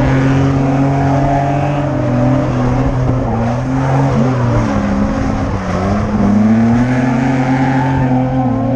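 Drift car engine held at high revs through a slide, with tyre noise underneath; the revs dip and waver about halfway through, then climb back and hold.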